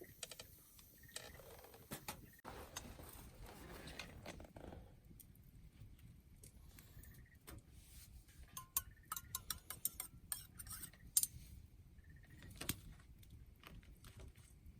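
A run of light metallic clinks and clicks, busiest a little past halfway, over a low steady rumble.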